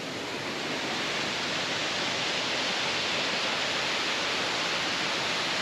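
Rushing water of a waterfall: a steady hiss that swells a little over the first second and then holds level.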